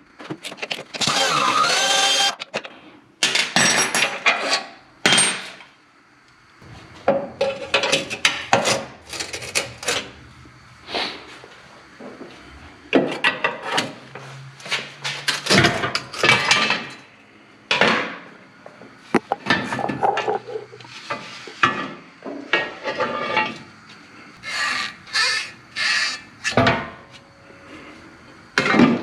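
Hand tools and metal parts clanking, knocking and scraping in irregular bursts, the sounds of working a truck transmission loose.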